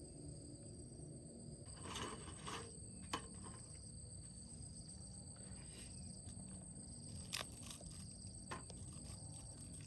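Insects, likely crickets, chirring in a steady high trill, with a few short knocks and rustles from handling things close by, the sharpest about three seconds in and again near seven seconds.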